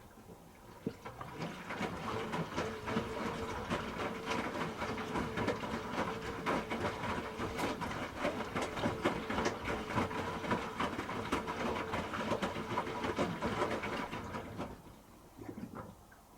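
Hoover H-Wash 300 Plus washing machine drum turning during a rinse, with water and laundry sloshing and clattering over a steady motor hum. It starts about a second in and stops near the end, leaving light dripping.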